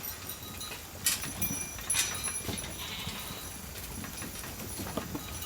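A flock of sheep coming in to feed: scattered hoof clatter and knocks, with a few faint bleats.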